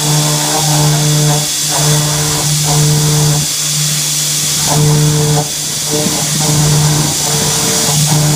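CNC mill cutting an aluminum bracket: a low pitched cutting tone that stops and restarts every second or so as the tool moves in and out of the cut, with a longer break about halfway through, over a constant hiss.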